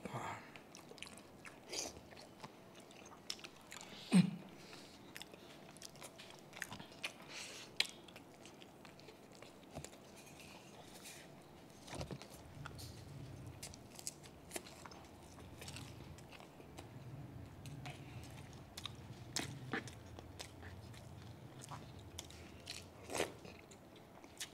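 Close-miked eating: biting and chewing pork, with wet mouth clicks and crunches.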